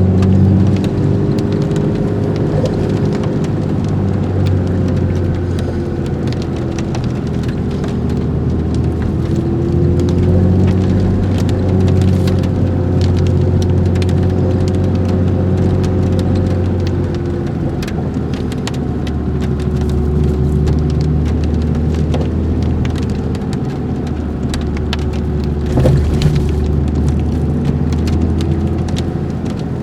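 4x4 vehicle engine running steadily under way, with a low drone whose pitch drifts slowly up and down, over scattered light ticks and crackles; a sharper knock about 26 seconds in.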